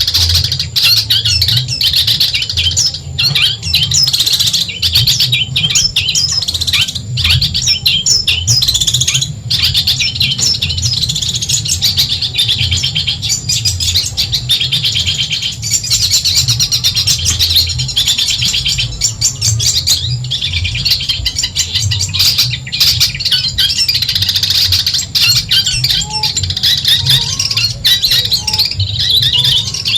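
Long-tailed shrike (cendet) singing a continuous stream of rapid, high chirps and trills, over a steady low hum.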